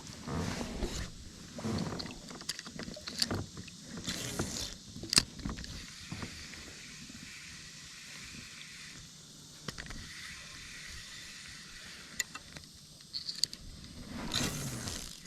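Knocks and clicks of a kayak and fishing gear being handled, with a couple of brief rushing swells.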